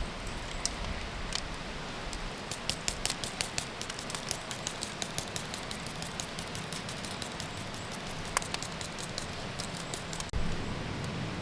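Wood fire crackling: scattered sharp pops and snaps over a steady hiss, most frequent a few seconds in.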